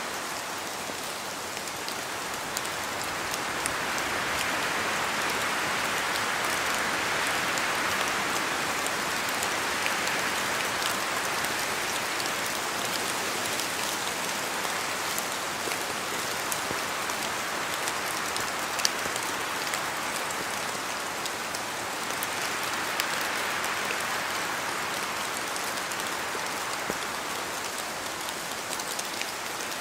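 Steady rain in a forest with wind, the hiss swelling and easing twice, and scattered sharper drops falling from the trees.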